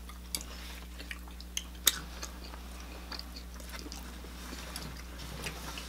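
Close-miked chewing of pasta and bread, with scattered light clicks of forks against plates, over a low steady hum.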